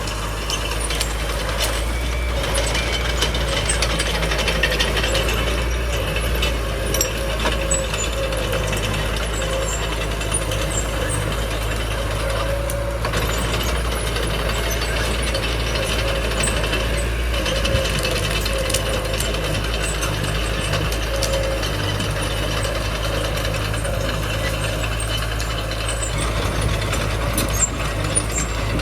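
Small bulldozer's diesel engine running steadily under work, with the metallic clanking and squeaking of its steel tracks and running gear.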